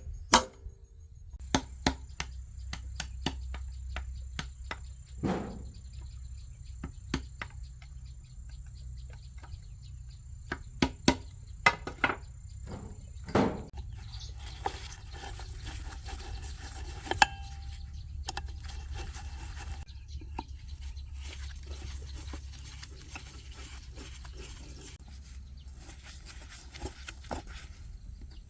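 Irregular clicks and knocks of metal parts and hand tools being handled, over a low steady hum, with a thin high-pitched whine through the first half.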